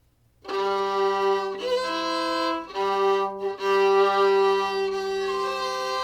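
Fiddle bowing slow double stops: a low open G string drones under changing notes played on the D string above it. The playing starts about half a second in, with short breaks as the bow changes direction.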